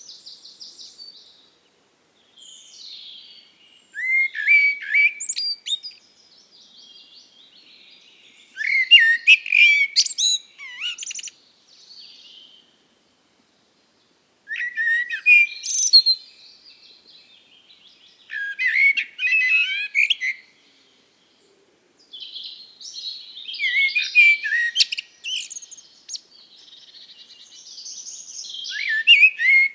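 A songbird singing: about six short, varied phrases of quick notes, each a second or two long, with pauses between them.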